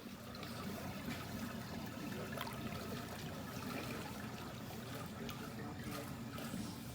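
Steady sloshing and trickling of water, with a few faint splashes.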